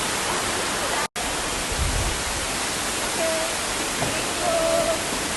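Steady rushing of a large indoor waterfall, broken by a split-second dropout about a second in.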